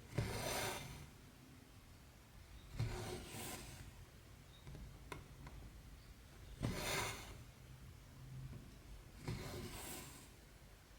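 Cross-stitch thread pulled through the fabric: four swishes, about one every three seconds, each starting with a sharp tick as the needle goes through and trailing off in a short rasping hiss, with one faint click in between.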